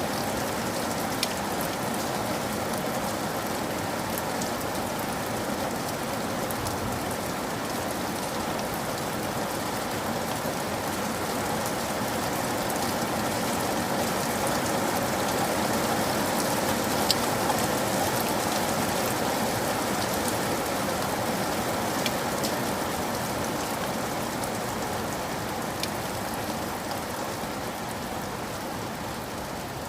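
Steady rain falling on a surface, with occasional louder single drops ticking; it swells a little in the middle and eases slightly toward the end.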